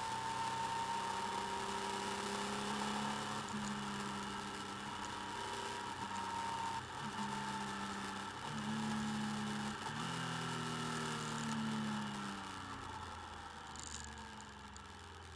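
Motorcycle engine running under way, its note breaking and shifting in steps every second or two as gears change, under a steady rush of wind and road noise. The engine note fades away over the last few seconds.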